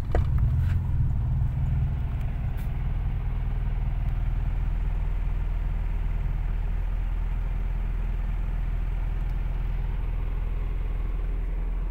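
Nissan B12's engine idling steadily, heard from inside the cabin as an even low rumble.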